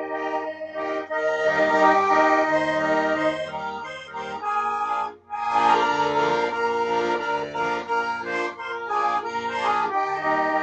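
Accordion music: held chords over a moving bass line, with a short break about five seconds in.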